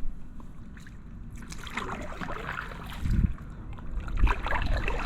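Kayak paddle strokes splashing and dripping water, with gusts of wind rumbling on the microphone about three and four seconds in.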